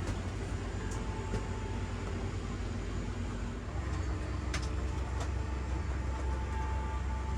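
Steady low rumble of an Airbus A380 cabin at the gate: air conditioning and aircraft systems running, with a few faint clicks. The rumble gets a little louder about three and a half seconds in.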